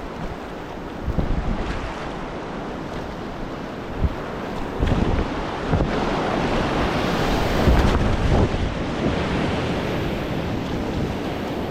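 Rushing whitewater of a river rapid, with wind buffeting the microphone in gusts; the rush swells louder midway.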